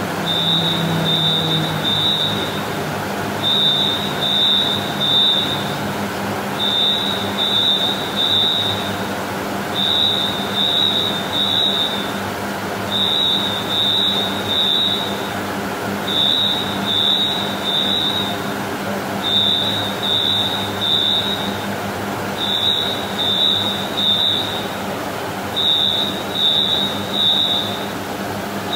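A high electronic beeper sounding in groups of three, the group repeating about every three seconds, over a steady low engine hum.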